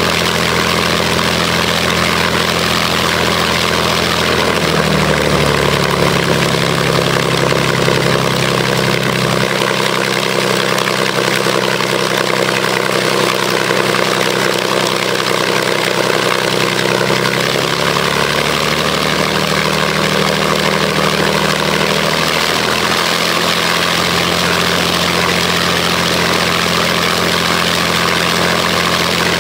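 Rolls-Royce Merlin 500-29 supercharged 27-litre V12 aero engine running on a test run. Its speed rises a little about five seconds in, holds there for several seconds, then eases back down to its earlier pace around twenty seconds in.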